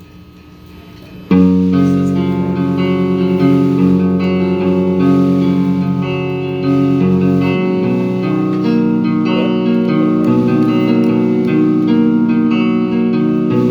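Band playing live: electric guitars come in loud and sudden about a second in after a brief lull, ringing out held chords over bass guitar; the bass drops out about halfway through while the guitars keep ringing.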